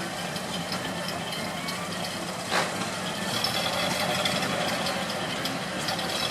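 Ford Model A four-cylinder engine idling steadily with an even, rough running note, and a brief louder sound about two and a half seconds in.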